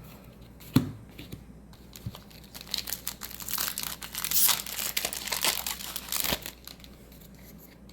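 Crinkling of a foil Magic booster-pack wrapper being handled, with a single knock about a second in.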